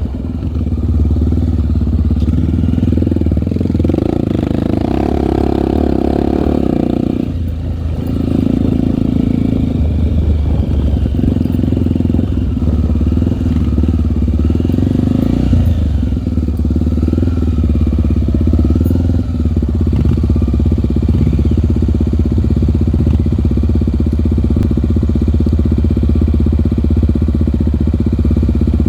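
Single-cylinder four-stroke trail motorcycle engine running, rising in revs and dropping back a couple of times, then running steadily over the last third.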